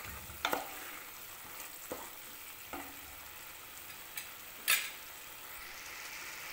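Yogurt and spice mixture sizzling and bubbling in hot oil in a pot as its extra water cooks off, stirred with a wooden spoon. A few sharp knocks of the spoon against the pot, the loudest about three-quarters of the way through.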